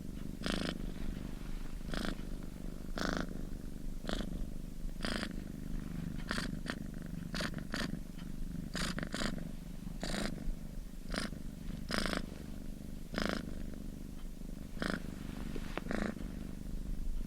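Domestic cat purring: a low, continuous rumble with a short breathy surge about once a second.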